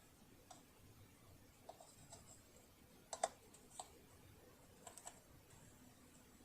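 Sparse light clicks and taps from handling tools and small parts of a partly dismantled household sewing machine, loudest as a quick pair about three seconds in and a run of three near the end, over near silence.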